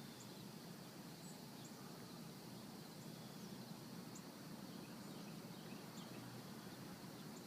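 Faint outdoor ambience: a steady high insect hum with a few brief, high chirps scattered through it, over a low background rumble.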